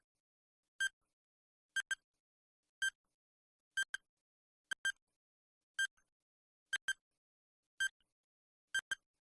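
Countdown timer sound effect: short electronic beeps at a steady one per second, many of them doubled into a quick tick-tick.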